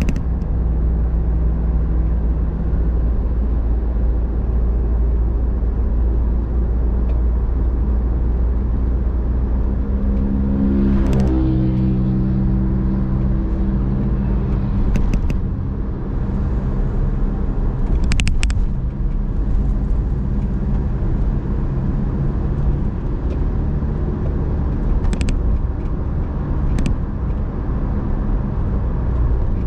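Car driving: steady engine hum and road noise, with the engine's pitch shifting about a third of the way through. A few short clicks or knocks come now and then.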